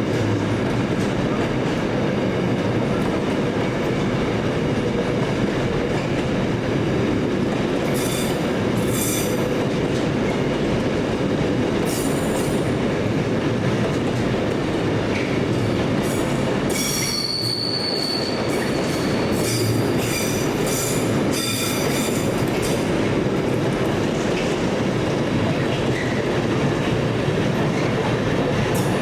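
Train rolling past close by: a steady rumble of wheels on the track, with scattered high-pitched wheel squeals from about eight seconds in, the clearest about seventeen seconds in.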